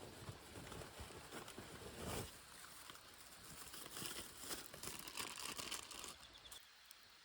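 Irregular rustling and crinkling handling sounds, with a louder rustle about two seconds in and a busier stretch of crinkling later, dying down near the end.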